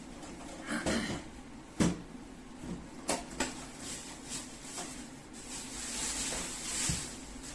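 Knocks, clicks and rustling from handling a microwave oven and its packing: a sharp knock about two seconds in, a few lighter clicks, and a stretch of rustling near the end.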